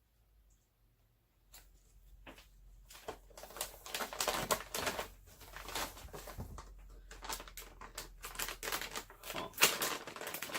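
Packaging being handled as a graphics card is unwrapped: a quiet first second or so, then continuous irregular rustling, crinkling and clicking that comes and goes in loudness.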